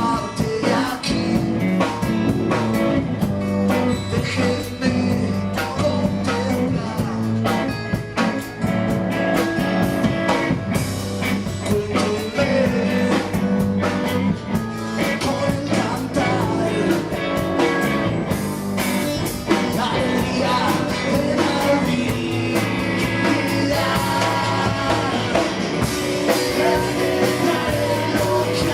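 Live band playing a song: guitar and drums with a voice singing.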